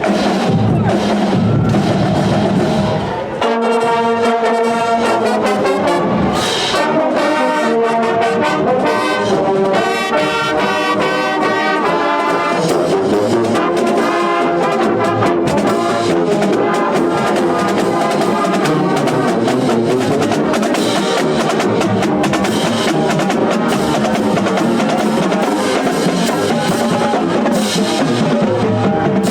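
A marching band's brass section playing a tune: trumpets and trombones in full, with some drums. A low rumble in the first three seconds gives way to clear held and moving brass notes.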